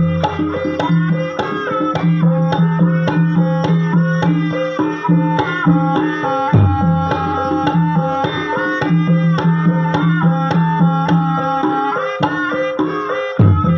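Javanese gamelan music accompanying an ebeg dance: a steady rhythm of hand-drum (kendang) strokes over held pitched notes, with short breaks in the low note just before the start and near the end.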